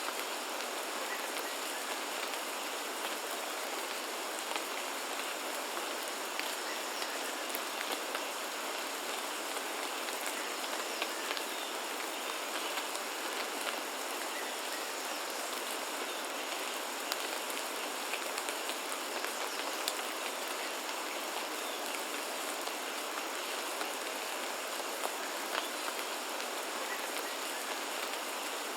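Steady rain falling, with many separate drops ticking on surfaces, and a faint steady high-pitched tone running under it.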